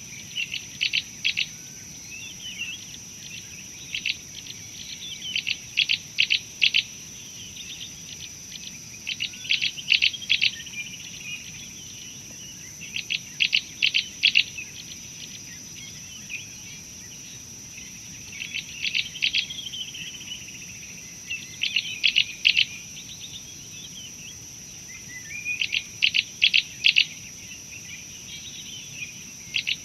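A bird calling over and over: short rapid runs of three to five sharp notes every few seconds, with softer twittering between them. A steady high-pitched insect drone runs underneath throughout.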